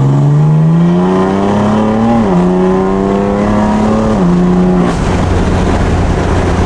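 BMW F82 M4's twin-turbo inline-six (S55), fitted with a single mid-pipe exhaust, accelerating hard. It rises in pitch and drops twice as it shifts up, then the engine note fades into a steady rush of noise.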